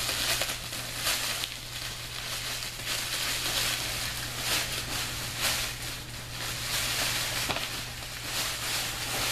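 Crinkling and rustling of a Blizzard self-heating casualty blanket's quilted outer material as it is handled and pressed closed, an irregular run of crackles.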